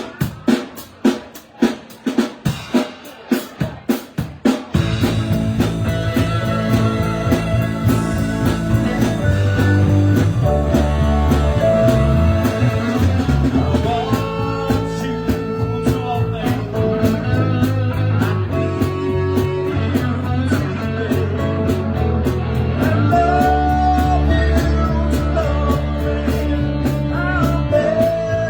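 Live band: the drums play alone, a steady run of sharp strikes about three a second, then about five seconds in the full band comes in with bass, electric guitar and drum kit in a blues-rock groove.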